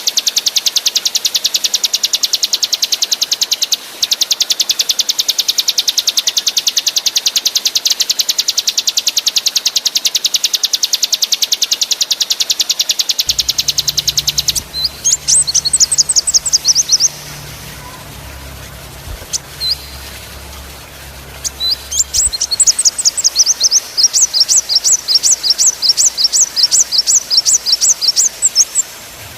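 Small songbird song recorded for bird training: a long, very rapid buzzing trill, then after a short pause a string of sharp, downward-sweeping high notes repeated about two to three times a second.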